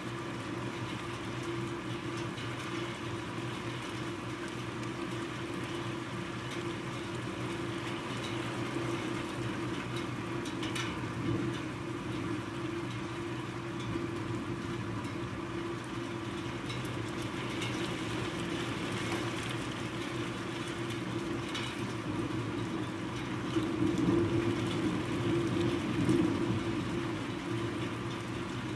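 Heavy storm rain falling and running steadily, with a constant low rumble beneath it. The rain swells louder for a couple of seconds near the end.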